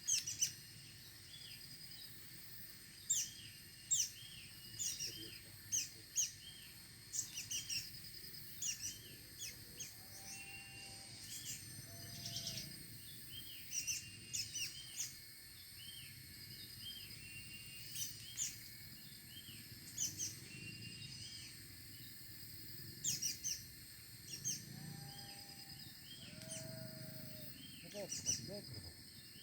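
Small birds giving repeated short, quick chirps throughout, over a steady high-pitched insect drone.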